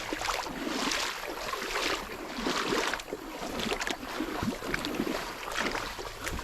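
Footsteps splashing and squelching through shallow river water and wet sand, in an uneven walking rhythm.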